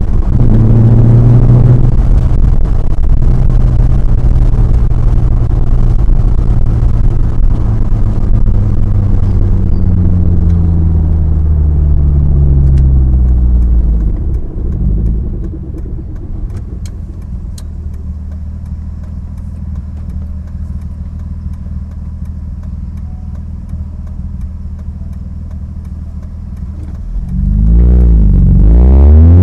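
BMW E36 exhaust with a new muffler, the engine held at raised revs and then falling back to a quieter steady idle about halfway through. Near the end it is revved again in several quick blips.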